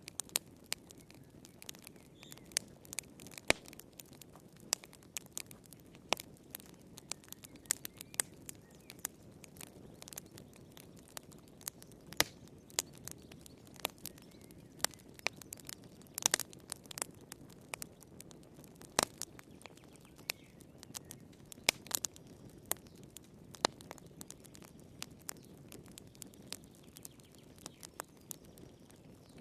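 Wood fire crackling in a fireplace: irregular sharp pops and snaps, some much louder than others, over a low, steady hiss of the burning.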